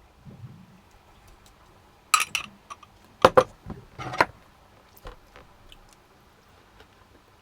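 Cutlery clinking and scraping on a plate while eating, with a cluster of sharp clinks about two to four seconds in and a few light ticks after.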